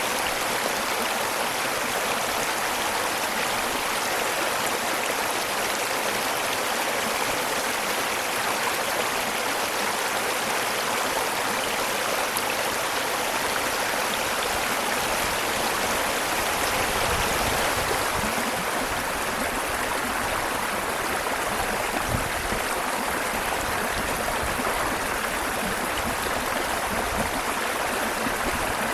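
Waterfall: a steady, even rush of falling water, with some low-pitched buffeting in the second half.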